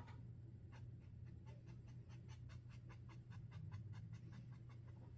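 Sharpie Creative Marker scratching on paper in quick, even back-and-forth strokes, about six or seven a second, as in hatching or filling in, over a faint steady hum.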